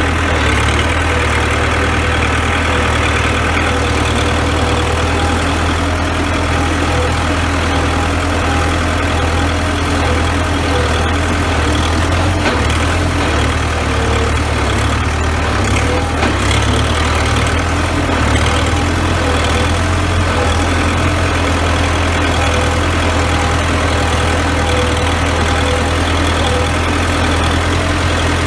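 CASE 580B backhoe's four-cylinder diesel engine running steadily, with no change in speed.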